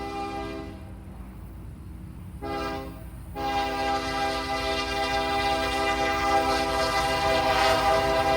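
Union Pacific SD70M locomotive's air horn sounding a chord in the grade-crossing pattern: a blast ending just under a second in, a short blast about two and a half seconds in, then a long blast that grows louder and carries on. A steady low rumble of the train runs underneath.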